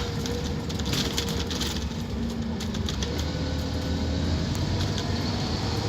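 Scania K230UB Omnilink single-deck bus running, its nine-litre five-cylinder diesel a steady low drone with a thin whine over it and scattered light clicks and rattles.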